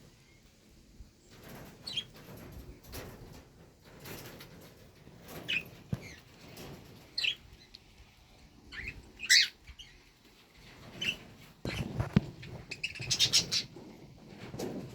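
A pet bird chirping in short, scattered calls, with rustling and a few soft knocks between them and a quick run of chirps near the end.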